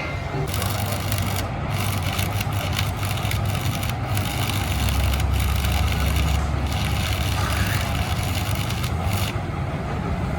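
A machine running steadily with a low hum and a scraping, rubbing noise over it. The hum grows heavier for a couple of seconds around the middle.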